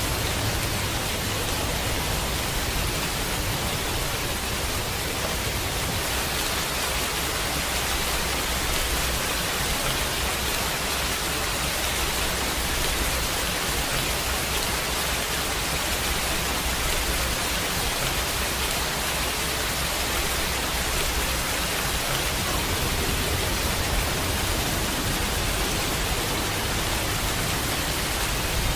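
Steady heavy rain, an even hiss with a low rumble underneath that swells and fades a little.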